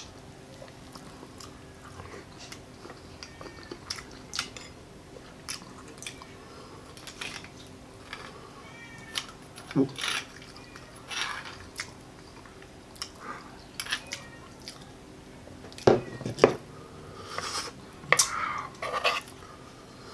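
Close-miked eating sounds: chewing, lip-smacking and slurping of baked bone marrow, with clicks and scrapes of a metal spoon digging marrow out of the bone. Short sharp smacks come irregularly, with a few louder ones in the last few seconds.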